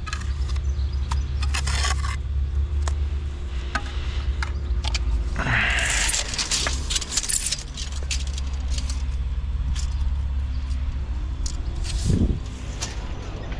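A steady low engine drone with many short metallic clinks and knocks over it, a brief scraping rush about halfway through, and a short rising-and-falling low tone near the end.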